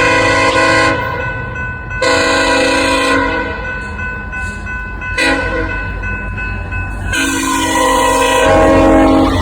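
Locomotive's multi-chime air horn sounding four chord blasts, long, long, short, long: the standard grade-crossing signal. Under the horn runs a steady low train rumble.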